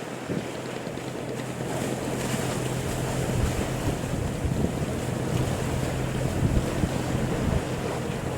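A fishing boat under way: a steady low engine drone under wind and water noise, with wind buffeting the microphone.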